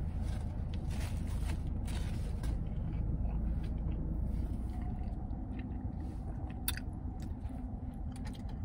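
A person chewing a mouthful of crispy fried chicken sandwich, with crunchy chews packed into the first couple of seconds, then softer chewing. A steady low hum runs underneath, and there is a sharp click near the end.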